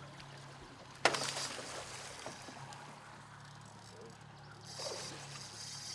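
Boat motor running with a steady low hum while a king salmon is netted alongside. A sudden loud splash about a second in is the loudest sound, and a short rush of water comes near the end.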